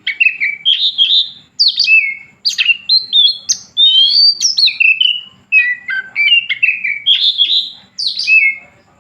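Oriental magpie-robin (kacer) in full song: a loud, rapid run of varied whistled phrases, stopping near the end.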